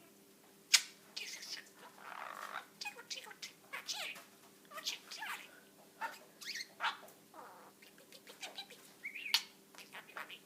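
Budgerigar chattering: a stream of short chirps, clicks and warbling notes, with a sharp click about a second in.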